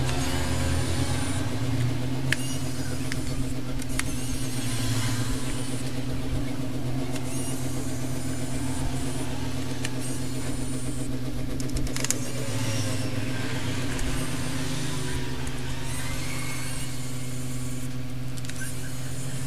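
Steady low electrical hum running throughout, with a few light clicks and taps from hand tools during a laptop disassembly.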